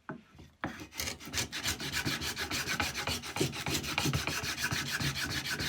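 Record No. 71 router plane's blade cutting into wood in quick, short scraping strokes, starting about half a second in. The blade has just been set another quarter turn deeper for this pass.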